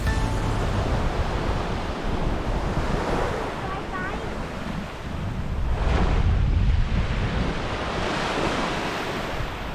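Sea surf washing in, swelling in surges a few seconds apart, with wind rumbling on the microphone.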